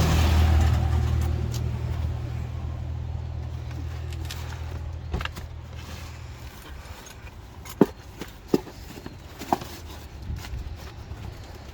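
A vehicle engine running with a low steady hum that fades and cuts off about six and a half seconds in. A few sharp clicks or knocks follow.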